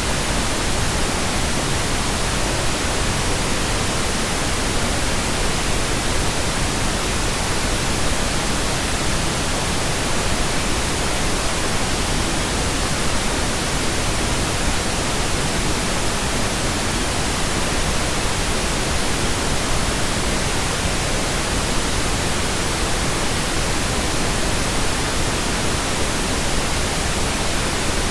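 Steady computer-generated pink noise: an even, unchanging hiss spread across all pitches, with no breaks or events.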